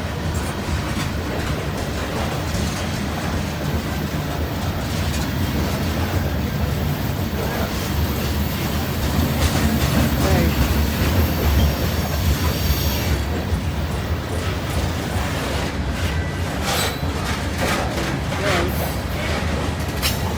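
Freight train rolling past with a steady low rumble, and a run of sharp wheel clacks over the rail joints near the end.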